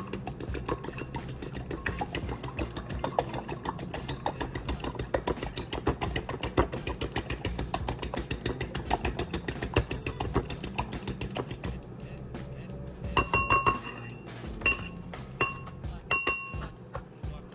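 Background music with dense rapid clicks, then, near the end, a few sharp clinks of dishes that ring briefly.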